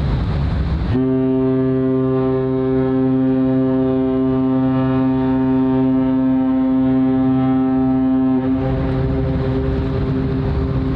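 Cruise ship MSC Fantasia's horn giving one long, deep, steady blast of about seven seconds, starting about a second in and cutting off sharply. Rumbling wind noise surrounds it.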